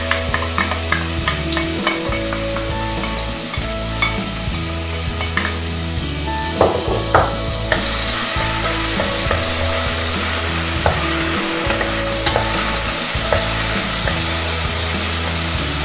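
Chopped onion sizzling steadily in hot oil in a stainless steel pot as it is stirred: the start of a soffritto. A few knocks of the spoon against the pot come about seven seconds in.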